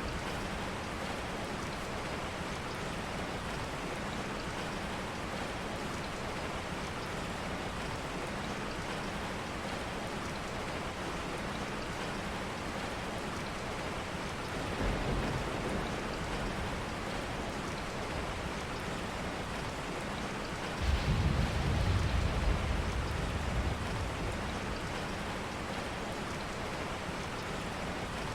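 Steady rain, an even hiss of falling water. A low rumble swells briefly about halfway through, and a stronger one about two-thirds through.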